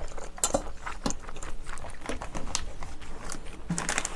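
Close-miked chewing of a mouthful of spicy tteokbokki: irregular wet smacks and mouth clicks.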